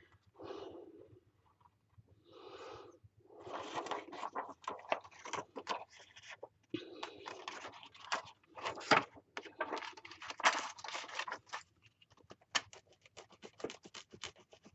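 Rub-on transfer being burnished onto a paper page with a rubbing tool: irregular scratching and scraping strokes that stop about three-quarters of the way through, leaving a few light clicks and taps.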